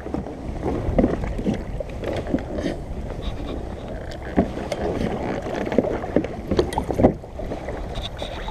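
Water sloshing and splashing against a kayak, with irregular knocks and bumps throughout.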